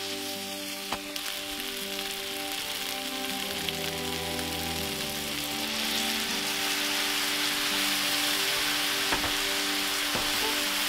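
Stir-fry sizzling in a hot frying pan of goya, chicken and vegetables tossed with chopsticks, with a few light clicks. About six seconds in the sizzle grows louder as the sweet-and-sour seasoning sauce is poured into the pan. Soft background music with held notes plays under it.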